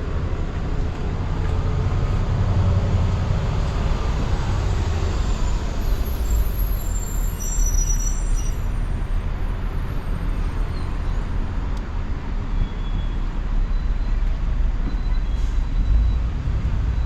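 Steady outdoor noise of wind rumbling on the microphone, mixed with the rush of sea waves against the breakwater.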